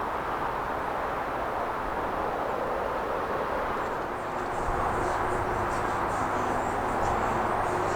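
Steady outdoor rumble of a vehicle running, with a low hum joining about halfway through.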